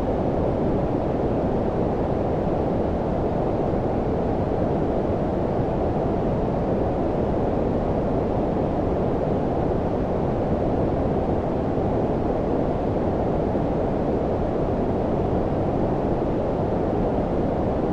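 Steady low-pitched noise, like white noise filtered down to a deep rumble (brown noise), with most of its energy below about 1 kHz and no change in level.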